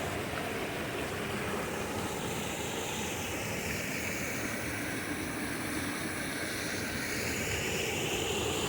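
Steady rushing of water from a cascading mountain stream and its small waterfalls.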